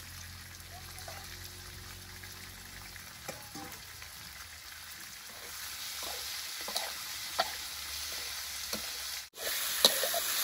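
Eel pieces sizzling as they stir-fry in a metal wok, with a metal spatula scraping and knocking against the pan. The sizzle grows louder past the halfway point, cuts out briefly near the end, then returns louder and closer with more spatula clicks.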